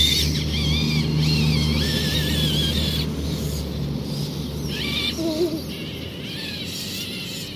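Electric motor and gearing of a radio-controlled scale crawler truck whining under load, the pitch wavering as the throttle changes; the whine is strongest for the first few seconds and then drops back, with a short wavering burst about five seconds in.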